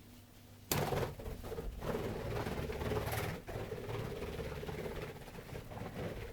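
Pet bird's wings flapping in flight, starting suddenly under a second in and going on as a rapid fluttering clatter for several seconds.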